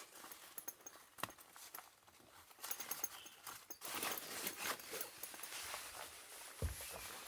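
Irregular light knocks and clicks, bunched thickest in the middle, with one low thud near the end and faint bird chirps behind.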